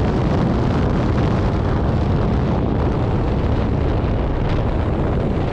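Steady wind rush on an action camera's microphone while riding a motorcycle, heavy in the low end and unbroken.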